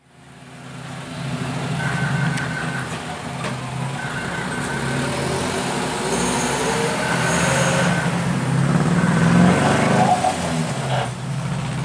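Vehicle engines running steadily as a low hum with traffic noise, fading in at the start, while a high tone sounds on and off about every two to three seconds.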